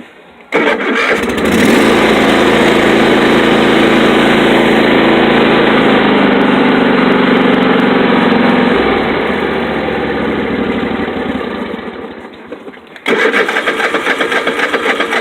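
Engine being cranked over on a cold start: a long crank of several seconds that drops off and winds down, then a second, shorter, pulsing crank near the end. The battery is too weak from the cold to spin it well.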